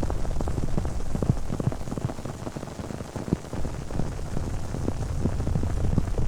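Close-miked ASMR trigger sound: a dense, irregular crackling patter of many small clicks over a low rumble, like rain on a surface.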